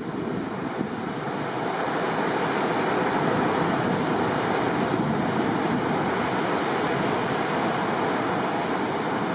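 Heavy surf breaking and washing on an open sea beach, the high waves raised by a typhoon, as a dense, steady rush that swells slightly about two seconds in. Wind blows across the microphone.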